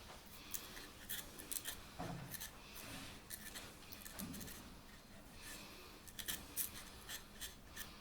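Faint, irregular scratching, rubbing and small clicks of hands handling a freshly threaded wooden piece and tools, with a few sharper ticks about six to seven seconds in.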